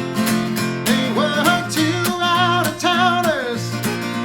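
Acoustic guitar strummed in a steady rhythm. About a second in, a man's singing voice joins, holding wavering notes that slide down near the end.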